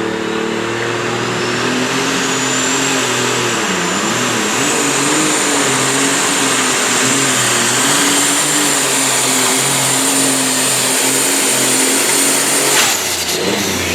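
Turbocharged pulling tractor engine at full throttle under load, with a high turbo whistle that rises over the first few seconds and then holds steady. The engine and whistle cut off suddenly near the end as the throttle is let off.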